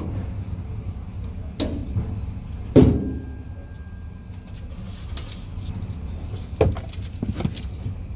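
Car engine idling, a steady low rumble heard from inside the cabin, with a few knocks and thumps inside the car, the loudest about three seconds in.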